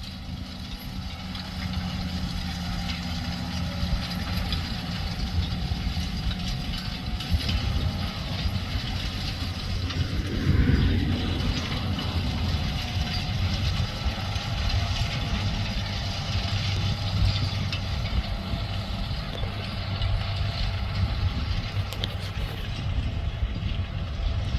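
Farm tractor engine running steadily, with a brief louder swell about ten seconds in.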